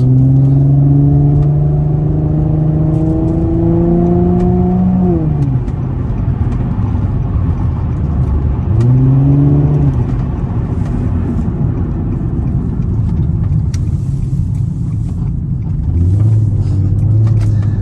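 2007 Infiniti G35 Coupe's 3.5-litre V6 with a Motordyne aftermarket exhaust, heard from inside the cabin, accelerating. The engine note climbs steadily for about five seconds, then drops away. It rises again briefly twice more, about halfway through and near the end.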